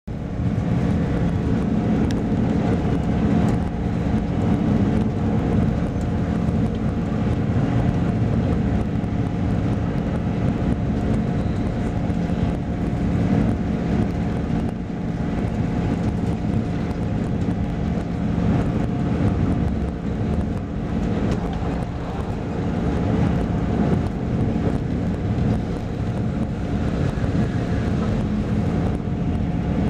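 Passenger train running, heard from inside the carriage: a steady rumble of wheels on track with a constant low hum from the train's drive.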